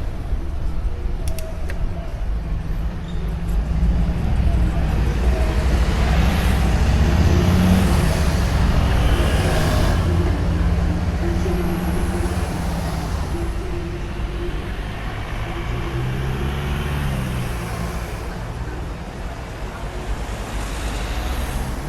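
Road traffic: motor vehicles passing, their engines swelling and fading, loudest about a third of the way through, over a steady low rumble.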